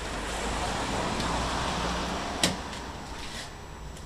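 Ford Tempo four-cylinder engine running just after a cold start, a steady hum with a noisy wash on top that swells and then eases off. One sharp click about two and a half seconds in.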